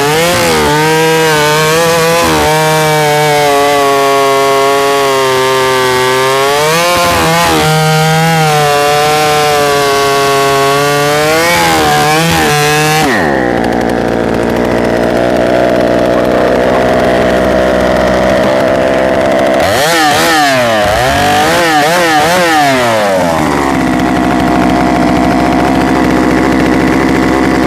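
A 90cc-class professional chainsaw running at full throttle through wood, its revs sagging and recovering under load. About halfway through it drops to idle and is blipped a few times, still running because its stop switch fails to shut it off.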